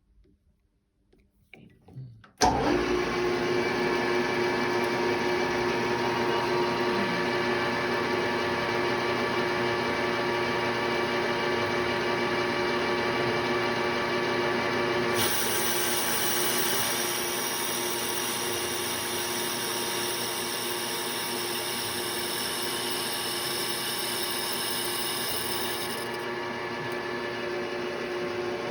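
Paulimot PM 3800 lathe switched on after a few light clicks, its motor and gearing running with a steady whine of several tones. A higher hiss joins about halfway through and drops away again near the end.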